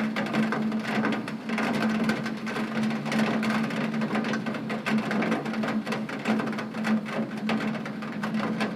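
Heavy rain tapping on a window pane: a dense, steady patter of many small drop clicks, with a steady low hum underneath.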